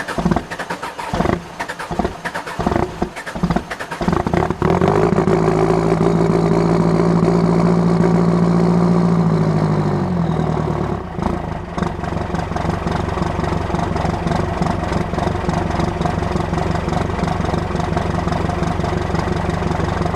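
Cummins diesel engine cold-starting with no preheat in single-digit cold: it cranks and fires unevenly for about four seconds, then catches and runs fast and steady. About ten seconds in the speed drops and it settles into a lower, steady idle.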